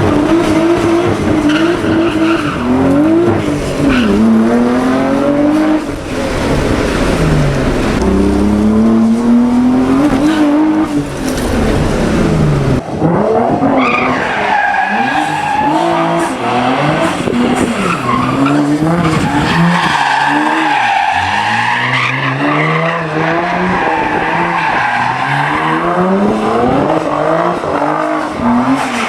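Nissan 300ZX Z32 twin-turbo V6 engine accelerating hard, its pitch climbing through each gear and dropping at every shift, over and over. About 13 seconds in it cuts to another run of the same kind.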